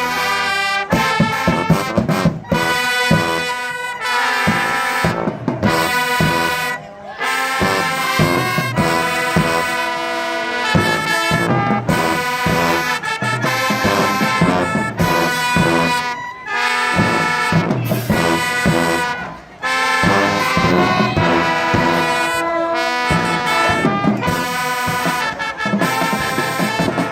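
High school band playing a loud, brass-led piece, trombones and trumpets to the fore, with short breaks between phrases about a third and two thirds of the way through.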